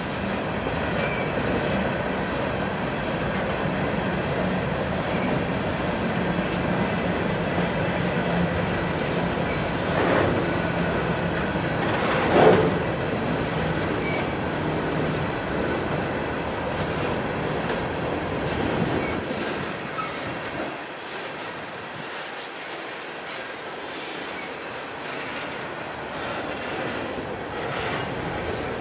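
Empty open-top coal hoppers of a freight train rolling slowly past as the train slows to stop, wheels rumbling on the rail with a faint wheel squeal. Two brief louder noises come about ten and twelve seconds in, the second the loudest, and the low rumble dies away in the last third.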